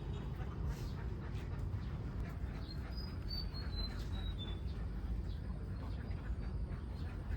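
A flock of domestic ducks quacking and calling, over a steady low rumble, with a short run of high chirps falling in pitch about three seconds in.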